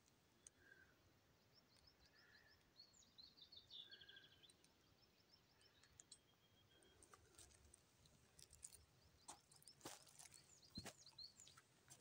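Near silence with faint birdsong: short high chirps and a rapid trill from a small bird, then a few faint footsteps near the end.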